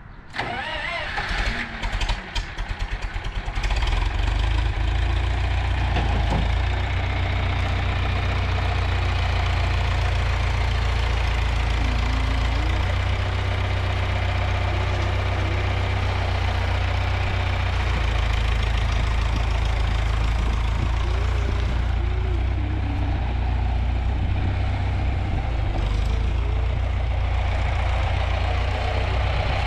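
A tractor engine cranks and catches in the first few seconds, then runs steadily at a low idle.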